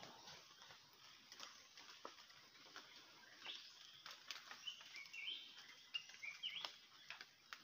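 Faint, short high bird chirps from birds feeding in a fruiting tree, a few stepped runs of notes from about halfway through, with scattered faint clicks.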